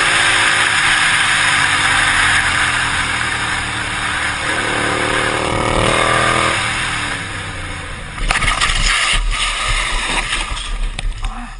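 Loud road and engine noise from traffic, with an engine revving up for a couple of seconds, then about eight seconds in a sudden loud crash followed by a few seconds of knocks and clatter: a motorcycle collision.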